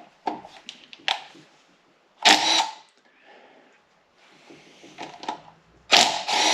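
Cordless power drill/driver whirring in two short bursts, the second near the end, as it spins out the 10mm bolts on the engine's thermostat housing. Light clicks and tool handling come first.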